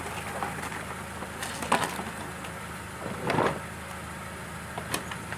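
A few knocks and a short scrape as a push mower is handled and tipped over to get at the blade: a sharp knock about a second and a half in, a brief scrape about three seconds in, and another click near the end, over a steady low hum.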